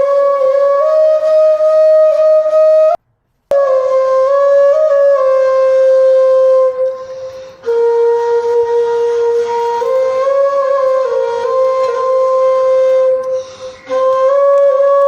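Background music: a solo flute melody of long, held notes that step slowly up and down. It cuts out completely for about half a second about three seconds in.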